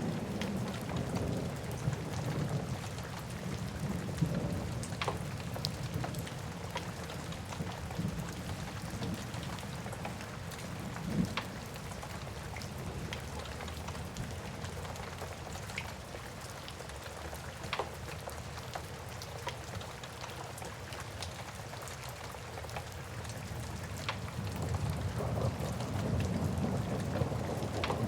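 Wood fire crackling, with scattered sharp pops, over steady rain. A low rumble is present at the start, fades, then swells again near the end.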